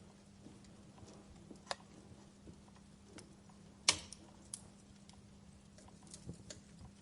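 Wood fire burning in a fireplace: scattered crackles and small pops. The sharpest pop comes about four seconds in and another about a second and a half before it.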